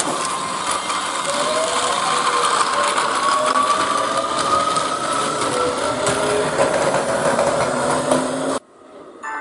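Electric train moving off, its traction motors whining in several tones that rise slowly in pitch as it gathers speed over a steady rumble and rattle of the running gear; the sound cuts off suddenly near the end.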